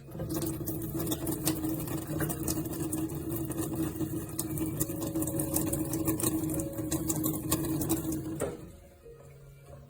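A small motor running with a steady hum and fast rattling clicks, which stops about eight and a half seconds in.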